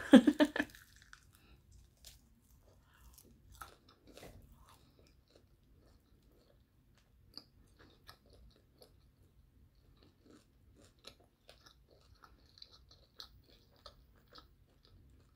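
A bite into a crunchy fried chicken wing coated in hot sauce: a loud crackle in the first half-second, then close-up chewing with faint, irregular crunches.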